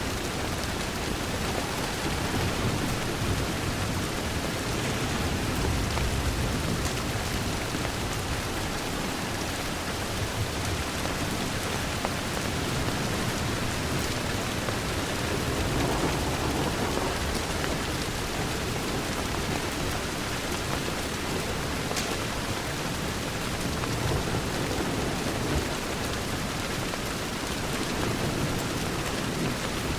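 Steady rain pattering against a window glass, an even, dense hiss with a low rumble underneath. A few faint crackles from a wood fire come through now and then.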